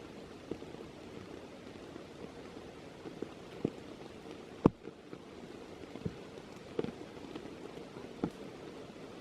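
Steady rain falling, with scattered sharp drops striking close by. The loudest comes a little past halfway through.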